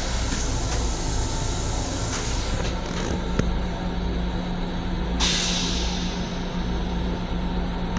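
Steady rumble and hum of an LIRR M7 electric railcar, heard from inside its restroom, with a few light clicks. About five seconds in comes a sharp hiss of air that fades away over a second or so.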